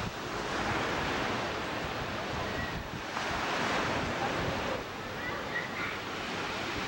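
Ocean surf: waves breaking and washing on a beach, swelling and easing every second or two, with wind buffeting the microphone.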